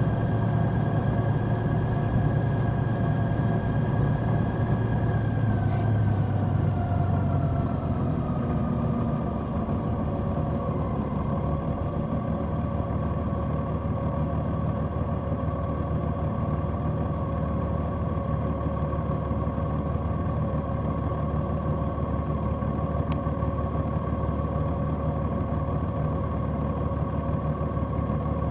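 Large motorcycle's engine running while riding. Its note drops from about six to eleven seconds in, as the bike slows or eases off, then holds steady.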